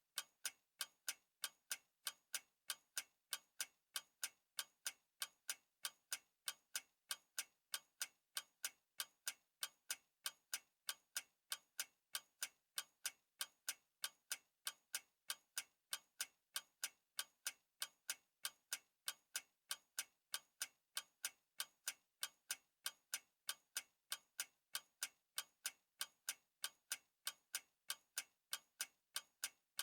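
Clock ticking steadily: sharp, evenly spaced ticks, about three a second.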